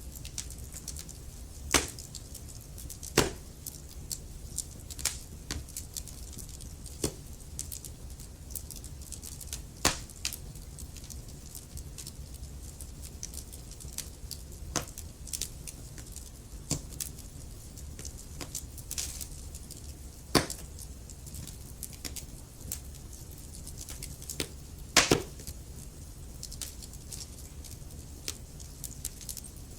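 Logs burning in a fireplace, crackling: frequent small clicks and a handful of louder sharp pops over a steady low rumble.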